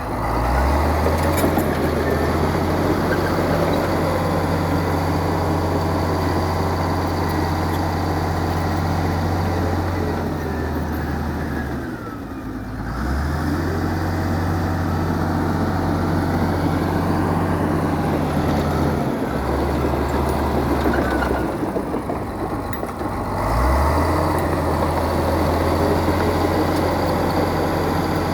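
Heavy diesel earthmoving machine working under load. Its engine note climbs about half a second in, sags near the middle and picks up again, then drops and climbs once more about three-quarters of the way through.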